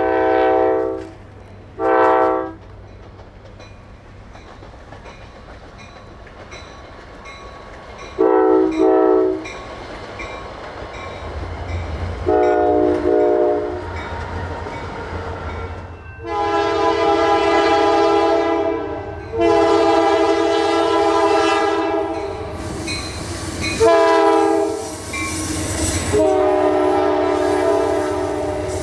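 Passenger train's multi-chime air horn sounding a series of blasts, ending in the long, long, short, long grade-crossing signal. A low train rumble grows beneath it as the train approaches.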